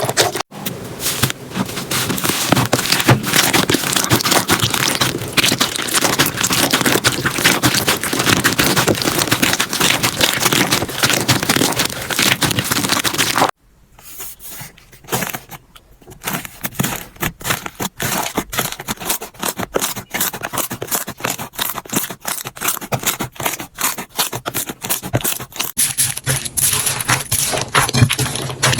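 Slime being squeezed and worked by hand, with a dense run of crackling and popping clicks. About halfway through, a sudden cut leads to a quieter clip of sparser clicks and pops.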